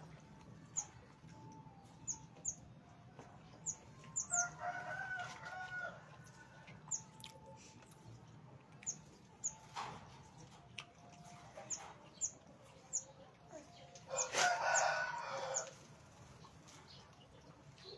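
Small aviary birds giving short, high chirps throughout, while a rooster crows twice, about four seconds in and again near the end, each crow lasting about a second and a half.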